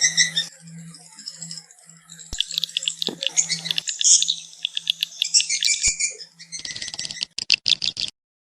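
Swiftlet calls, as used to lure swiftlets to nest houses: bursts of high, rapid chirping and rattling twitters over a low steady hum. The sound cuts off suddenly near the end.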